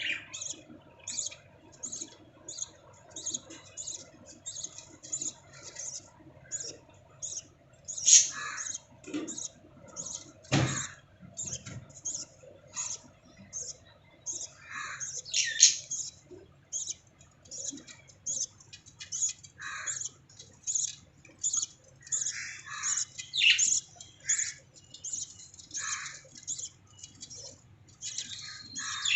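Lovebirds chirping: a rapid run of short, high chirps, about two or three a second, with a few louder calls mixed in. A single knock about ten seconds in.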